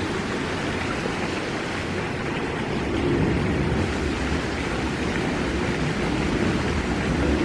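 Creek water running steadily, a rain-swollen creek back down to its normal flow.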